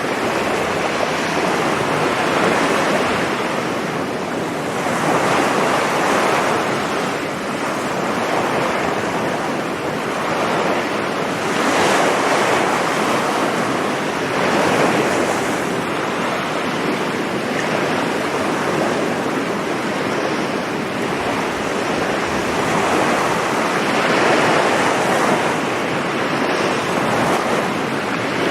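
Sea waves breaking and washing on a beach, a continuous surf that swells every few seconds, with wind noise on the microphone.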